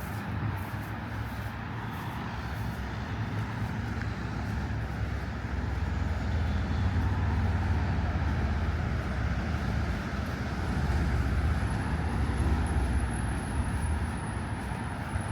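Road traffic going by: a steady low rumble that swells in the middle and eases off again. A faint thin high whine joins about two-thirds of the way through.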